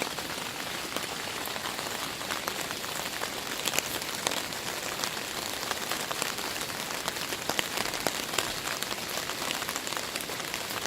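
Heavy rain falling steadily, with many individual drops ticking sharply and irregularly on a nearby surface.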